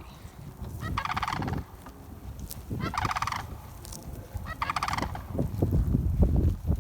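Sandhill cranes calling: three loud rattling, trumpeting calls, about two seconds apart. A low rumbling noise rises under them in the second half.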